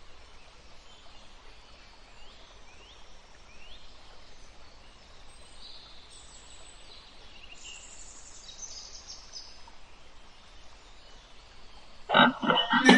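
Faint outdoor background with a few short, high bird calls. About a second before the end, a loud, harsh animal call begins.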